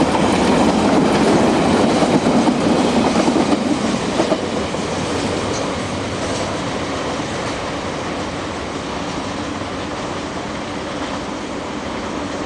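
Freight train wagons rolling past on the track, with wheels clicking over rail joints. Louder for the first four seconds, then settling to a steadier, quieter rumble.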